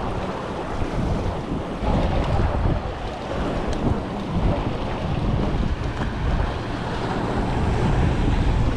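Wind buffeting the microphone in gusts, with waves washing against the jetty.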